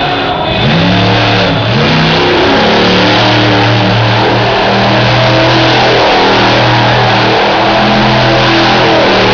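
Monster truck engine revving hard: the pitch swoops up and down over the first couple of seconds as the throttle is worked, then holds steadier at high revs with a couple of brief dips.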